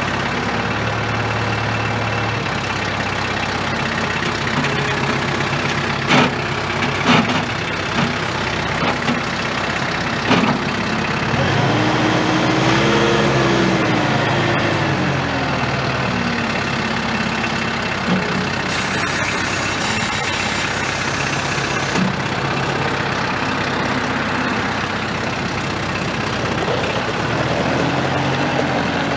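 The 2016 Kubota M7060's four-cylinder turbo diesel running steadily, its engine speed rising and falling back about halfway through and shifting again near the end. A few short knocks in the first third.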